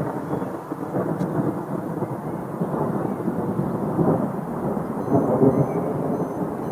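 Thunder rolling from a thunderstorm: a long, uneven rumble that swells and fades several times.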